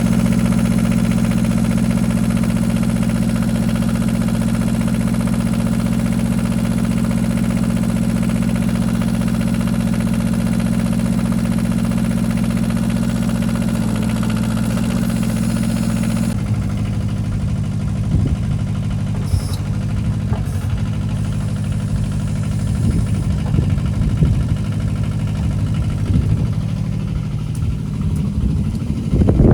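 Kubota KH-007 mini excavator's diesel engine running steadily. A little over halfway through, the sound changes abruptly: the steady engine tone gives way to a lower, uneven rumble.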